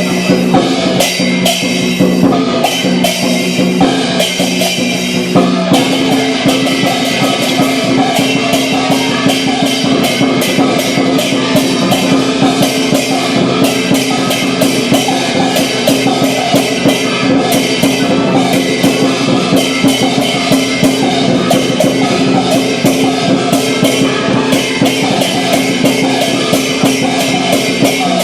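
Lion dance percussion: a Chinese drum beaten rapidly and continuously with clashing cymbals, played loud.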